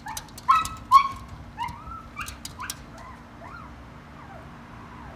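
Dog whining in a quick series of short, rising whines, loudest about half a second and a second in, trailing off after about three and a half seconds.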